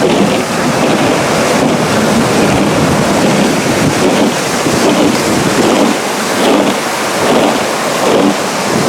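Strong wind rushing across an outdoor microphone: a loud, steady roar of noise with no clear pitch.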